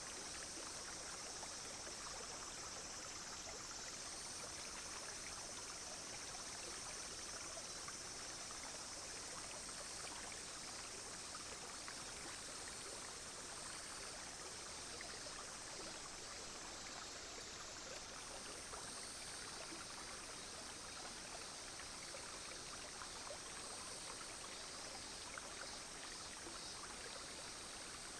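A clear, shallow stream flowing steadily, with an even trickling rush of water. Under it is a steady high drone of cicadas and other insects, which shifts slightly in pitch about 4 and 18 seconds in.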